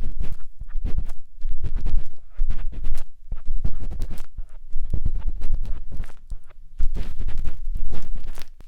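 Matchstick scratching and rubbing inside the silicone ear of a 3Dio binaural microphone, in irregular close scratchy strokes with a deep rumble from contact with the ear, pausing briefly a few times.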